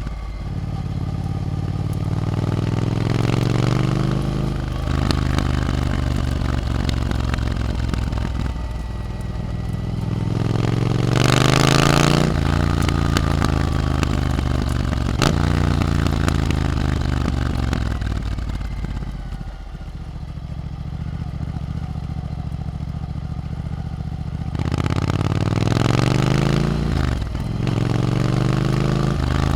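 A Triumph Scrambler 900's parallel-twin engine through an Arrow aftermarket exhaust, ridden on the road. It pulls up through the gears several times, its pitch climbing and then dropping at each shift, with steadier stretches between. A brief loud rush of hiss comes just before the middle.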